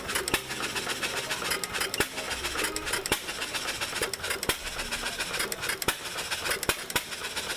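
1927 John Deere single-cylinder hit-and-miss engine running, firing a sharp pop at uneven gaps of about half a second to a second and a half and coasting between the pops, over a steady mechanical clatter.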